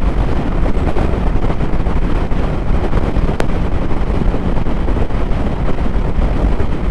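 Motorcycle on the move: wind rushing over the microphone on top of a steady low drone of engine and road noise. A single faint click sounds about three and a half seconds in.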